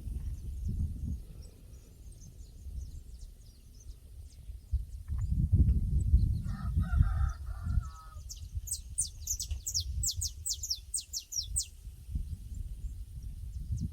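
Pasture ambience: a rooster crows faintly about six seconds in, and a small bird gives a quick run of high chirps a couple of seconds later. Low gusts of wind rumble on the microphone throughout and are the loudest sound.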